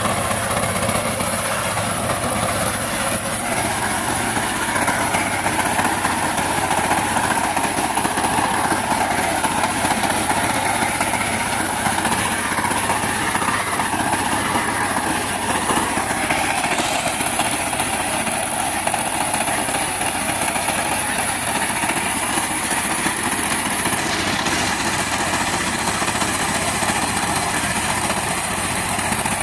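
Power tiller engine running steadily as it tills a field.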